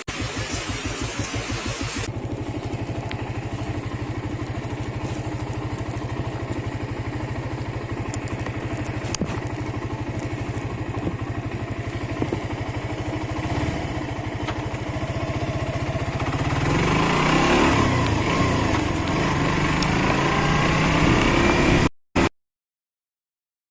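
Motorcycle engine running with a steady, even beat, then revving up and getting louder about three quarters of the way through, before the sound cuts off suddenly near the end.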